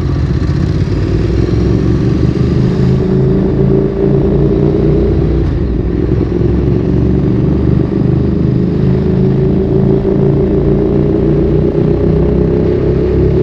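Ducati Streetfighter 848's 90-degree L-twin engine running at low revs through a Termignoni exhaust while riding. The throttle eases off a few seconds in, and the revs climb slowly near the end.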